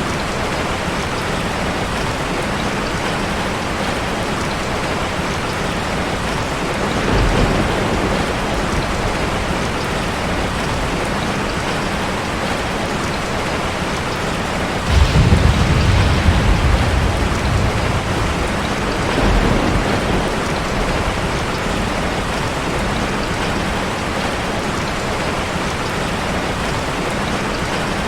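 Heavy rain hitting a car, steady throughout, with thunder rumbling three times: a short roll about seven seconds in, the loudest roll lasting a few seconds from about fifteen seconds in, and a weaker one near twenty seconds.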